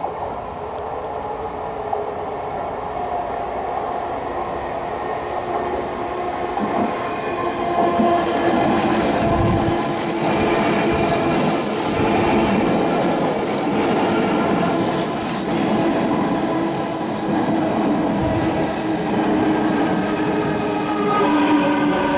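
Odakyu 4000-series electric train approaching and running past, growing louder over the first eight seconds. From then on its wheels give a high squeal that pulses about once a second, over a steady hum of tones from the train.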